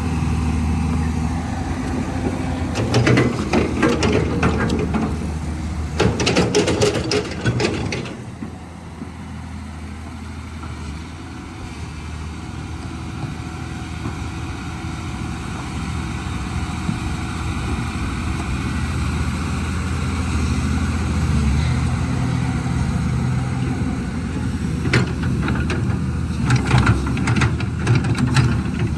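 Caterpillar 320 excavator's diesel engine running steadily, with three bursts of clattering knocks, one near the start, one just after, and one near the end. The engine drops off about a third of the way in and slowly builds back up.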